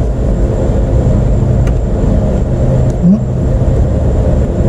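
Steady low rumble of an engine running without change, with a short rising squeak a little past the middle.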